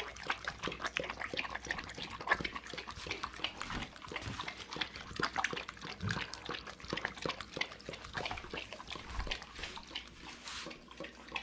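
A dog chewing steamed salmon head and tail: a quick, irregular run of wet smacks and crunches.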